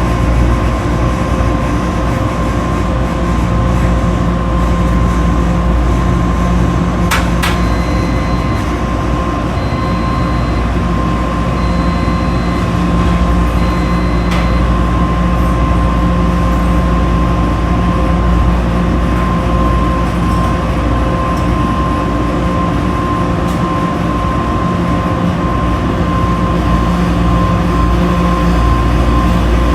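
Washing machine running with a steady low rumble and a constant hum. Partway through come a couple of sharp clicks and four short beeps about two seconds apart.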